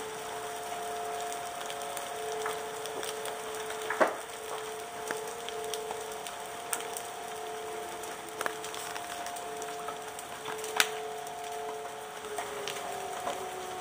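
Rain falling with scattered hailstones knocking on hard surfaces, two louder hits about four seconds in and near eleven seconds. A faint steady hum runs underneath and drops in pitch near the end.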